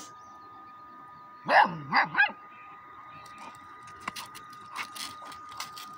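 A dog barks three times in quick succession, about a second and a half in, with short clicks and scuffs after.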